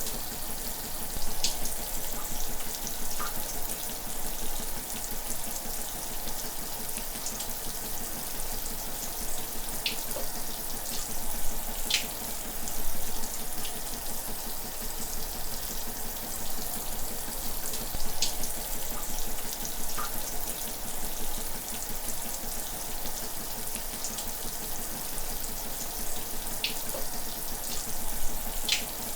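Shower running: a steady hiss of spraying water, with a brief sharper splash or drip every few seconds.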